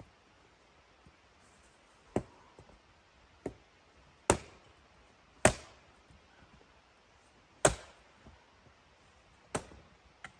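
Wood being chopped: about six sharp, single strikes at uneven gaps of one to two seconds, the middle ones the loudest.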